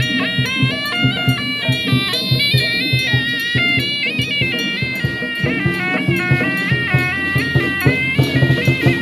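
Chinese procession music: a shrill double-reed suona plays a stepping melody over fast, steady drumbeats.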